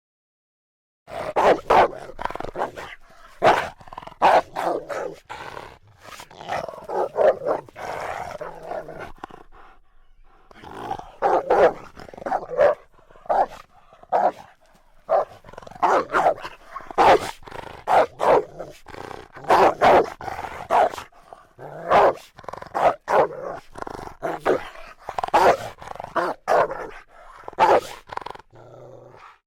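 Dogs barking and growling in short, overlapping bursts, starting about a second in and keeping on almost to the end.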